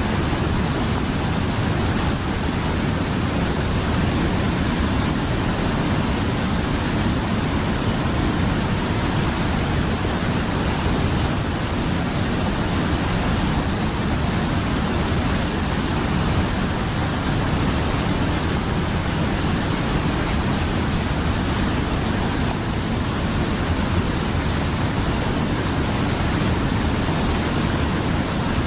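Mountain river flowing: a steady, unbroken rush of water, fullest in the low range.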